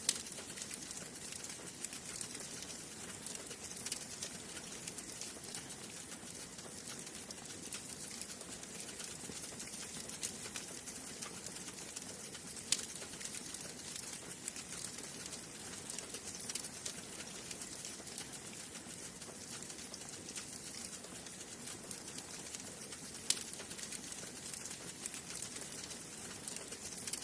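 Wood fire burning in a fireplace, crackling steadily with a soft hiss and many small ticks, and two louder pops about 13 and 23 seconds in.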